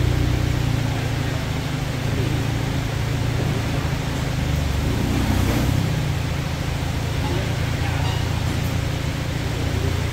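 Volkswagen Scirocco's engine running at a steady low idle as the car rolls slowly into the bay.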